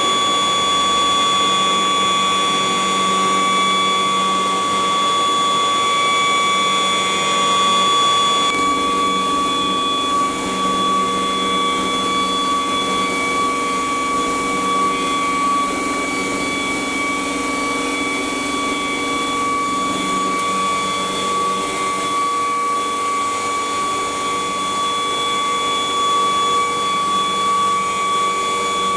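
CNC wood router spindle running at speed with a steady high-pitched whine over a rushing noise; the low part of the sound shifts about eight seconds in and again about twenty seconds in.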